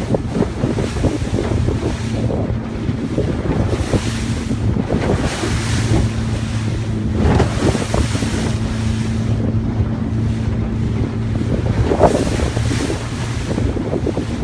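Boat under way: a steady low engine hum under heavy wind buffeting on the microphone and rushing, splashing water. The hum drops away about eleven seconds in, while the wind and water go on.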